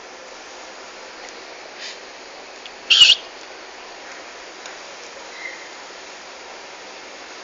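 A single short, high-pitched bird chirp about three seconds in, over a steady background hiss.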